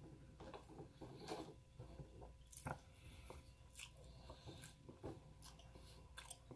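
Faint chewing of food by a person eating, with many short, irregular crunches and mouth clicks.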